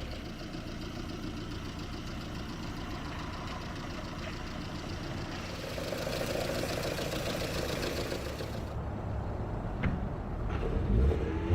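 LADA 2110 (VAZ 2110) engine idling steadily, a little louder about halfway through, with a few sharp knocks near the end.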